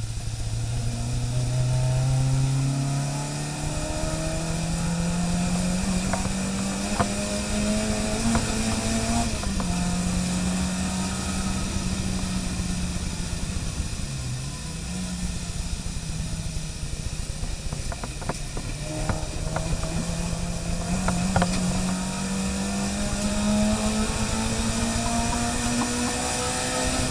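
Car engine running under load, its note climbing slowly as the revs build, falling back about nine seconds in and dipping again around fourteen seconds, then climbing steadily once more. A few faint clicks sound over it.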